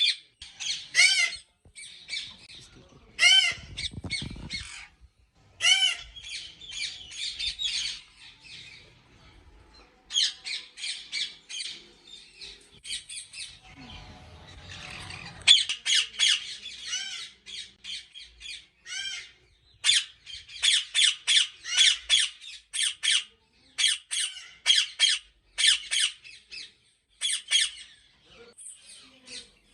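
Many ringneck parakeets squawking in rapid, repeated harsh screeches. There is a brief lull about nine seconds in, and a low rumble of handling or movement near fourteen seconds.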